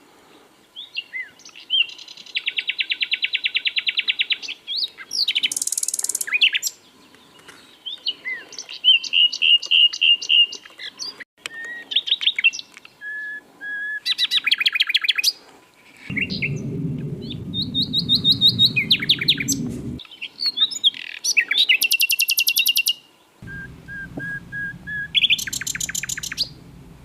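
Common nightingale singing a run of varied phrases with short pauses between them: fast rattling trills, clear whistled notes and quick rising sweeps. A low rumble sounds underneath twice in the second half.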